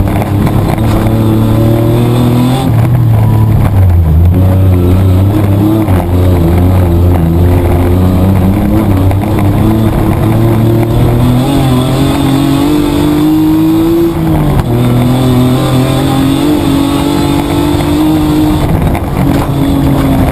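Mitsubishi Triton petrol engine heard from inside the cab under racing load. Its revs climb and fall back several times as it goes through the gears, over a constant loud low rumble.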